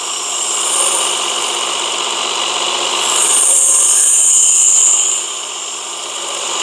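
Work Sharp Ken Onion edition electric belt sharpener running steadily, with a knife blade drawn across the moving abrasive belt. The grinding hiss grows louder for about two seconds near the middle during one pass.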